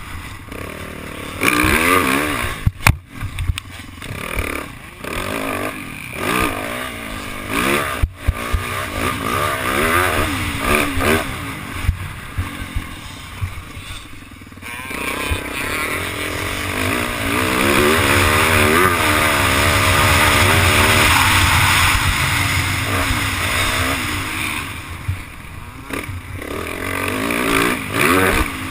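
Yamaha YZ450F dirt bike's single-cylinder four-stroke engine, its pitch rising and falling again and again as the throttle is opened and closed, with brief cuts around 3 and 8 seconds in. Wind rushes over the helmet-camera microphone.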